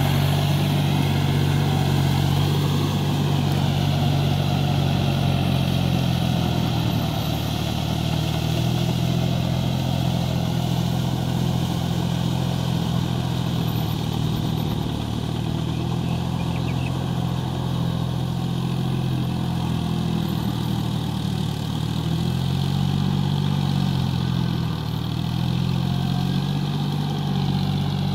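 John Deere 5045D tractor's three-cylinder diesel engine running continuously, its pitch dipping and rising slightly with the engine speed.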